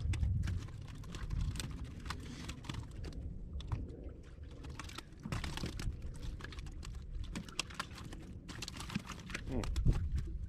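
Irregular light clicks and rustling from fishing rod and reel being handled close to the microphone, over a low rumble.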